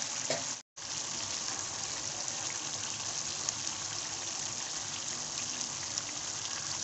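Chicken aloo gobi sizzling and bubbling in a pan over the flame as its remaining liquid cooks off, a steady hiss with small crackles. The sound cuts out for a moment about half a second in.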